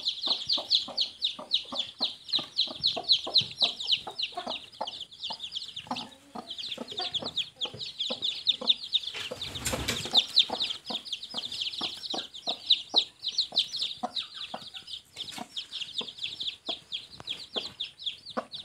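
A brood of newly hatched chicks peeping constantly in short high chirps, several a second, while the mother hen clucks low and quickly among them. A brief rustle of noise comes about halfway through.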